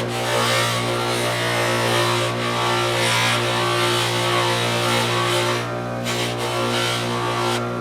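Electric bench polisher running steadily with a hum, a wrench being buffed against the wheel with polishing compound.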